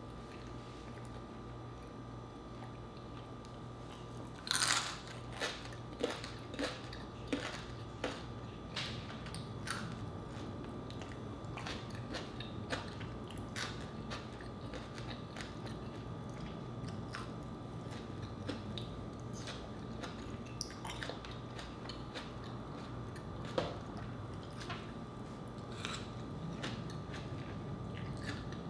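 A person biting and chewing crunchy deep-fried meat: a run of sharp crunches starts about four seconds in, densest in the first half, then thins out, with one more loud crunch near the end.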